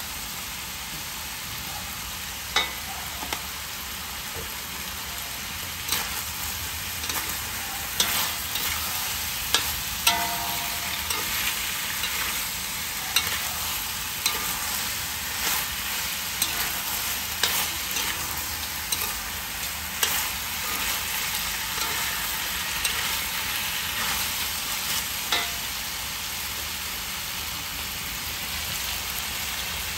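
Frog pieces sizzling steadily in hot oil in a wok, with a metal spatula scraping and clacking against the pan at irregular intervals as they are stirred. The stirring stops a few seconds before the end, leaving only the sizzle.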